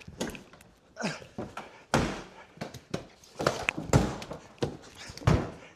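Irregular clicks, taps and thuds from a Morgan sports car's soft-top hood being raised and fastened in a hurry: the frame, fittings and fasteners knocking as they are worked by hand.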